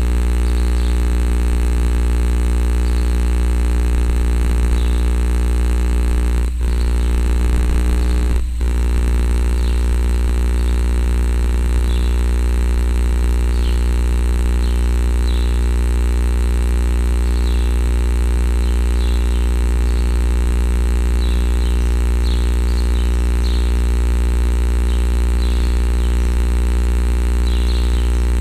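A loud, steady low hum made of many evenly spaced tones that stays unchanged throughout, with two brief dropouts about six and a half and eight and a half seconds in.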